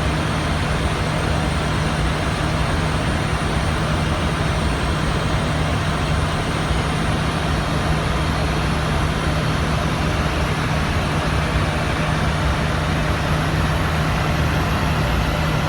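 Steady cockpit noise of an Airbus A310 on final approach: an even rush of airflow and engine noise with a constant low hum underneath.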